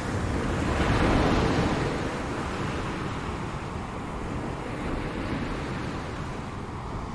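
Ocean waves breaking on a shore: one wave crashes about a second in, then a softer wash of surf as it runs out.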